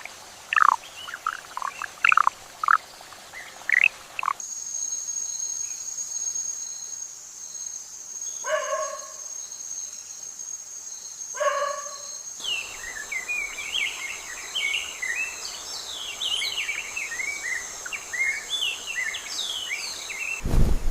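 Forest ambience: birds chirping with short sweeping notes, then a steady high insect trill. Over the trill come two harsh calls a few seconds apart, and later a dense run of quick bird chirps.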